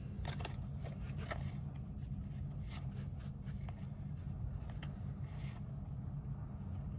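Baseball trading cards being flipped through by hand, giving short, irregular papery scrapes as the cards slide against one another, over a steady low hum.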